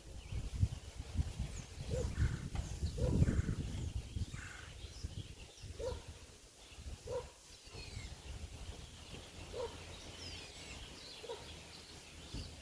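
Short animal calls repeated every one to two seconds, with thin high bird chirps around them. Wind buffets the microphone in the first few seconds.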